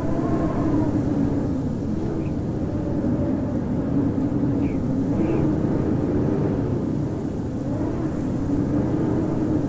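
Howling blizzard wind: a steady low rush with moaning tones that waver, rising and falling in pitch.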